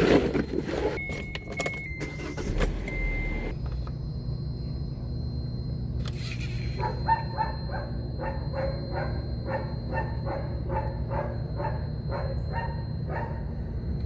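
2014 Kia Forte engine started after the oil change: brief cranking about three seconds in, then idling steadily. From about seven seconds in, a repeating dashboard warning chime sounds about twice a second over the idle.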